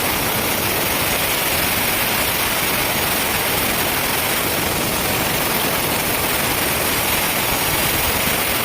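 Sawmill machinery running with a steady, loud, even noise.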